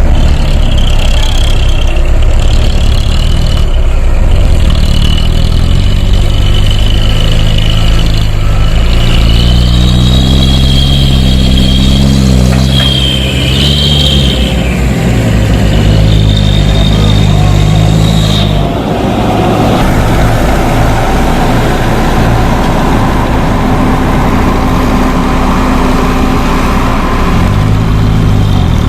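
Hino 300 dump truck's diesel engine held at raised revs while it powers the hydraulic tipper, with a high wavering whine over it; about two-thirds of the way through the revs drop back and the engine runs lower, then rises briefly again near the end.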